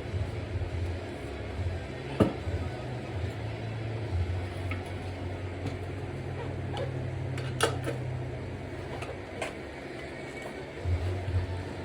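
Scattered sharp clicks and knocks of tools against a pit bike wheel rim as the tire is worked off, about five in all, the loudest about two seconds in and again near the middle, over a steady low hum.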